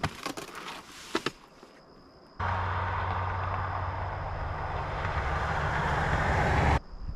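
A few faint light clicks, then a steady vehicle engine and road noise with a low hum that starts suddenly about two seconds in, grows a little louder and cuts off abruptly near the end.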